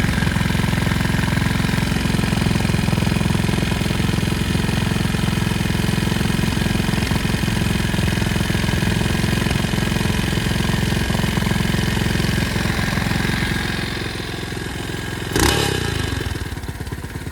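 Pit bike engine running under way at steady speed, easing off near the end. About fifteen seconds in there is a single sudden sharp burst that dies away quickly.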